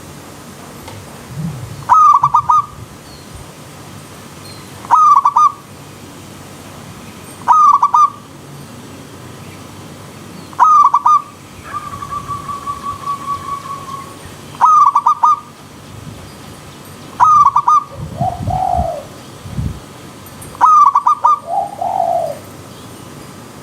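Zebra dove (perkutut) repeating its short, clipped cooing phrase about every three seconds over the steady rush of a stream. A level trill comes in near the middle, and two lower falling calls come near the end.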